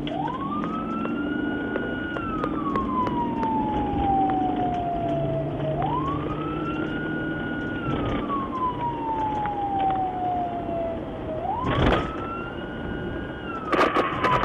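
Emergency vehicle siren wailing: a tone that climbs quickly, holds briefly, then slides slowly down, about three full cycles, over a steady low engine rumble. A short crackle sounds about twelve seconds in, and a louder burst of noise near the end.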